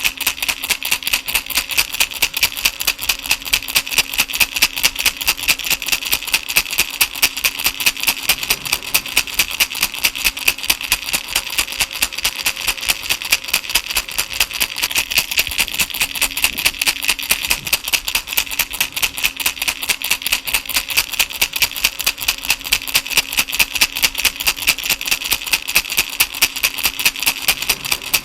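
Baby rattle shaken in a steady, even rhythm, several shakes a second, its beads or pellets giving a bright, crisp rattle.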